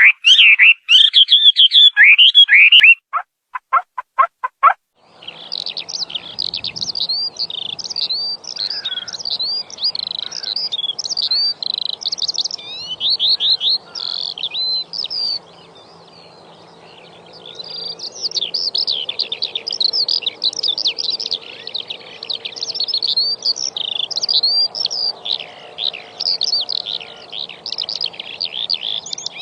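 Wild songbirds calling: a few loud, lower-pitched repeated calls first, then from about five seconds in a dense chorus of many small birds twittering in quick high chirps, easing briefly around the middle, over a faint steady low background noise.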